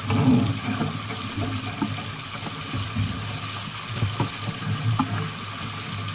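Water rushing and splashing along a sailboat's hull, a steady wash with a few brief slaps.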